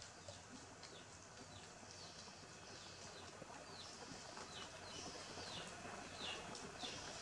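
Faint chirping of small birds: short, high notes sliding downward, repeated one after another and coming more often in the second half.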